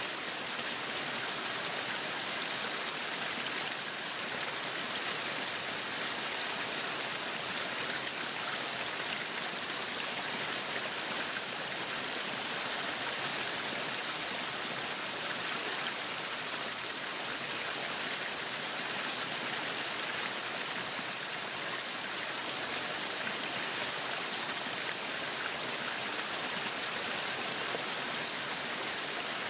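Meat sizzling on a yakiniku grill: a steady, even hiss.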